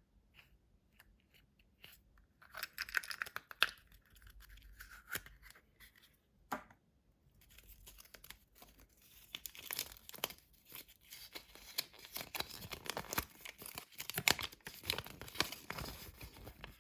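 Foil wrapper of a chocolate surprise egg being torn and crinkled: a burst of crinkling, a single sharp click, then several seconds of dense, continuous crackling.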